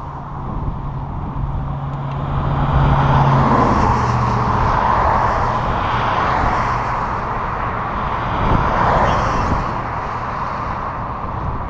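Road traffic passing close by: a vehicle's engine hum drops in pitch about three seconds in as it goes past, and a second swell of road noise comes around nine seconds. Underneath runs a steady low wind rumble on the microphone.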